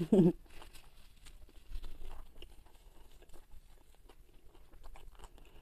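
Close-miked chewing of fried carp: wet mouth sounds with scattered light, crunchy clicks. A short hum of the voice comes right at the start.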